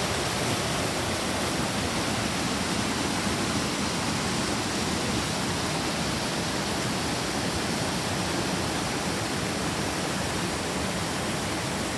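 Waterfall, a steady, even rush of falling water close by.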